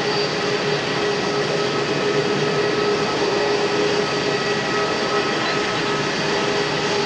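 Jet engines of a Boeing 787-8 Dreamliner airliner running steadily: an even rush of noise with several whining tones held at a constant pitch.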